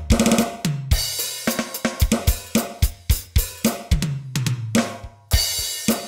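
Roland TD-8 electronic drum module's kit sounds being played: a rolling groove of kick, snare and hi-hat, with tom fills falling in pitch that land on a crash cymbal about a second in and again near the end.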